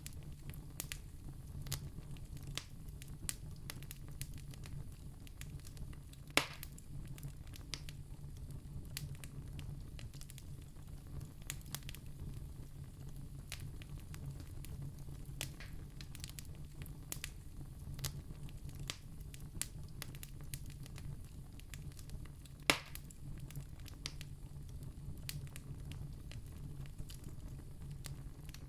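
Wood fire burning in a fireplace: a steady low rumble with constant light crackling, and two louder sharp pops, one a few seconds in and one about two-thirds of the way through.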